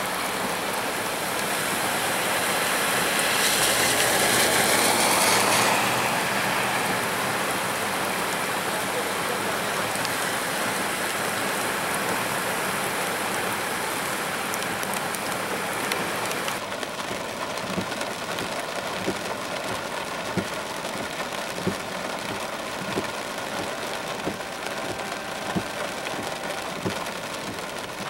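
Heavy rain pouring down, with vehicles splashing through floodwater on the road; the splashing noise swells for a few seconds near the start as a car passes. About halfway through the sound changes abruptly to duller rain with scattered drops ticking close by.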